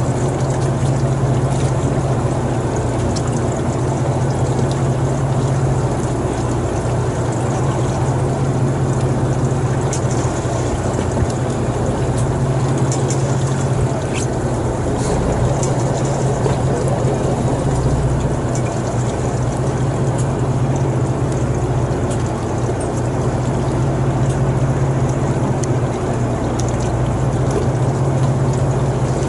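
A boat's engine running steadily at an even pitch, with a constant low hum.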